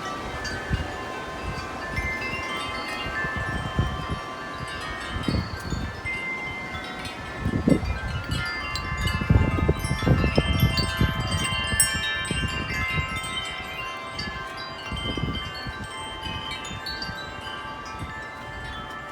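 Large metal tube wind chimes ringing continuously in strong, gusty wind, many notes overlapping. Gusts rumble on the microphone, strongest about halfway through.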